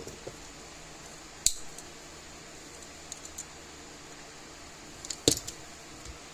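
Sharp clinks and clatter of small metal tools or parts being handled on a workbench. A louder clink comes about a second and a half in, two light ticks follow, and a cluster of clinks comes near the end, over a steady low background hiss.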